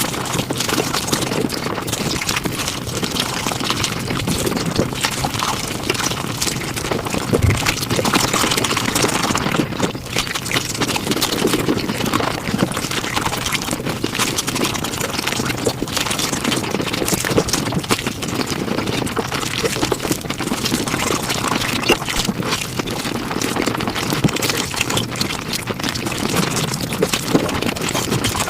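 Mukbang eating sounds played at five times speed: chewing and mouth noises run together into a dense, rapid stream of clicks.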